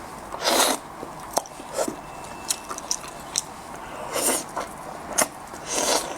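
A person eating and chewing sweet-and-sour braised anglerfish with small wet clicks throughout, and three louder, longer wet mouth noises about half a second, four seconds and six seconds in.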